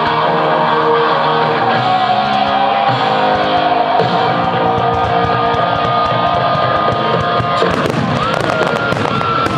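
Music with long held notes plays throughout. About three-quarters of the way in, a rapid run of firework bangs and crackles starts up over it as aerial shells burst.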